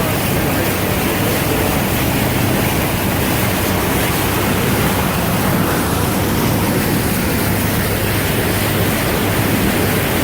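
Steady rush of floodwater washing against a large RV as it drives through deep water, with a low steady engine hum underneath.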